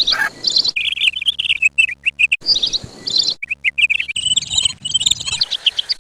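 Small birds chirping: a dense, continuous run of short high chirps in quick succession.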